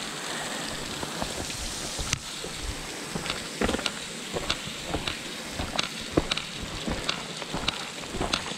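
Falling water from a waterfall: a steady hiss with many irregular drops spattering close by.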